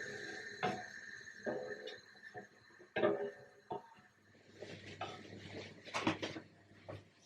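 Kitchen handling sounds: a string of light knocks and clinks of dishes, glassware and utensils being picked up and set down, with some rustling in the second half. A faint steady high tone runs through the first half and stops about halfway.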